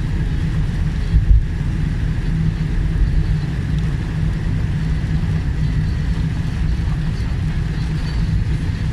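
Steady low rumble of a car being driven, heard from inside the cabin, with a brief thump a little over a second in.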